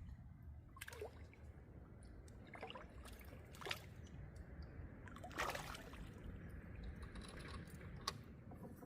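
Water splashing and trickling in about five short bursts, with a sharp click near the end.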